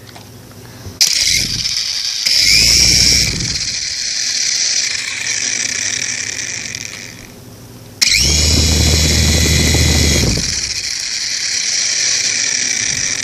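Small electric motors of a toy RC helicopter whining at a high pitch as the rotors spin, in two runs: it starts abruptly about a second in, dies away around seven seconds, then starts again abruptly at eight seconds and keeps running. A low rumble comes with the first couple of seconds of each run.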